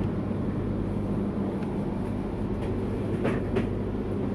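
Steady low rumble and hum of a Tsubasa Shinkansen train running, heard inside the passenger car, with a couple of faint short knocks about three seconds in.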